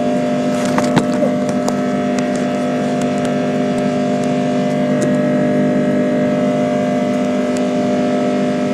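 Airbus A330-300 jet engines heard steadily from inside the passenger cabin: a loud drone with a low hum and several steady whining tones. A few brief cabin clicks or rattles come about a second in.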